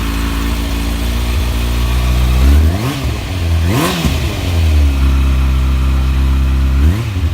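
2012 Kawasaki ZX6R's inline-four engine idling through a carbon Akrapovic exhaust with its baffle in, given quick throttle blips about three and four seconds in and twice more near the end, the pitch jumping up and dropping back to idle each time.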